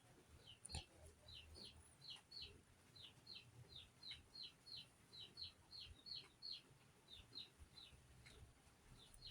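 Faint small bird chirping over and over: short high falling chirps, often in pairs, a couple of times a second.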